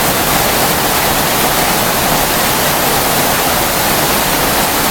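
Heavy storm rain mixed with hail pouring down, a loud steady rush without a break.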